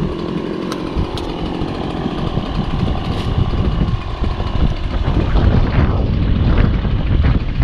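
Small gasoline engine running steadily, with strong wind buffeting the microphone, the rumble growing heavier in the second half.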